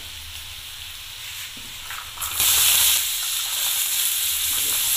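Oil with garlic, green chilli and turmeric sizzling softly in a steel kadhai; a little over two seconds in, chopped green beans and potatoes go into the hot oil and the sizzle jumps much louder and holds steady.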